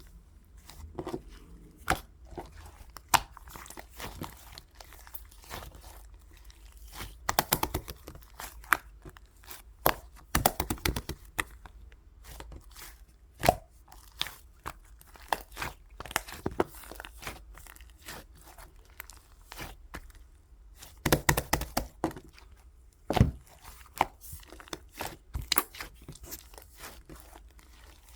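Slime being handled: irregular sharp clicks and crackling pops, some coming in quick bunches.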